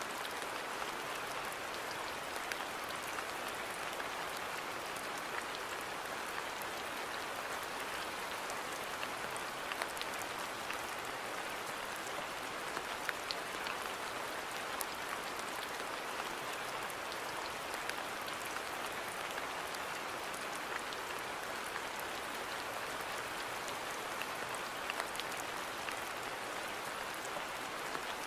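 Steady rain falling on a garden: an even hiss with scattered individual drops ticking.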